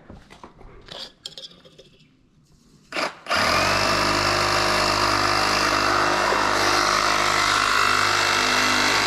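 Power saw cutting pipe, its motor running at a steady speed for about six and a half seconds, starting about three seconds in. A few knocks and clicks come before it.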